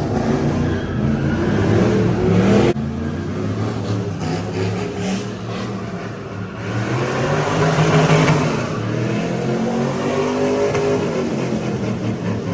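A car engine revving and accelerating, its pitch climbing and then breaking off abruptly a few seconds in, then rising again near the middle.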